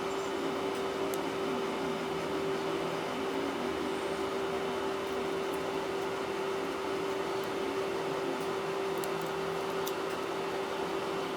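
A steady machine hum with one held tone, unchanging throughout, with a few faint light clicks.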